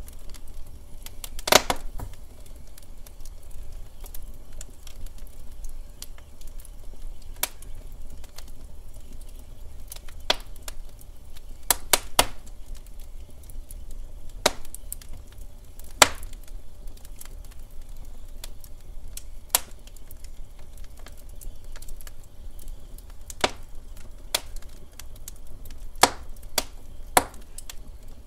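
Log fire crackling in a fireplace: irregular sharp pops and snaps over a low steady rumble, the loudest pops about a second and a half in, twice in quick succession around twelve seconds in, and at about sixteen seconds in.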